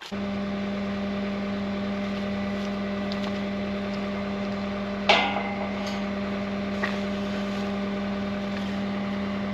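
Skid steer engine running at a steady, even speed, with one sharp knock about five seconds in and a couple of faint ticks after it.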